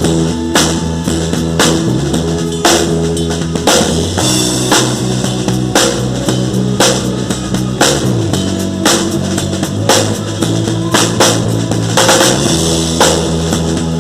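Live band playing an instrumental passage with no singing: a drum kit keeps a steady beat with kick and snare over sustained bass notes, and the harmony changes about every four seconds.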